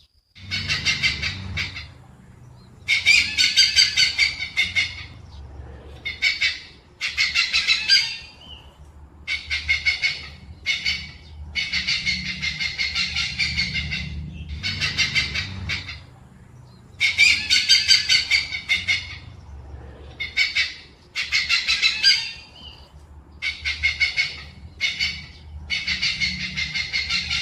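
Hornbill calling in repeated bouts of rapid pulsed notes, each bout lasting one to two seconds with short pauses between, over a faint low hum.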